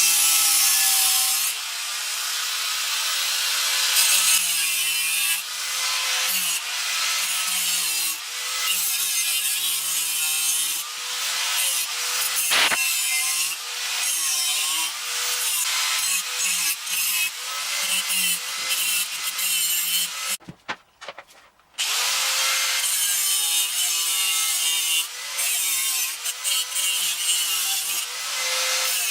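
Power grinder cutting and grinding a notch into a steel exhaust pipe. Its motor note dips under load and recovers. It stops briefly about two-thirds of the way through, then starts again.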